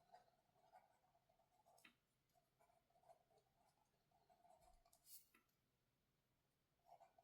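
Faint pen or pencil writing on paper, scratching in short strokes, with two soft taps, the second about five seconds in.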